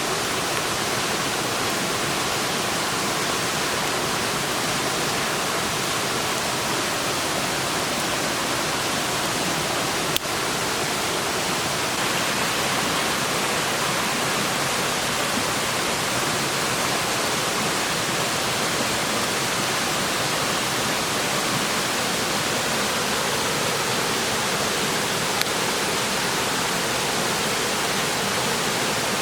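Clear stream rushing, a steady, even wash of water. A single sharp click about ten seconds in.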